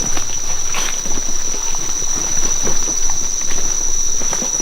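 Steady high-pitched drone of rainforest insects, one unbroken whine, with irregular short clicks and rustles underneath.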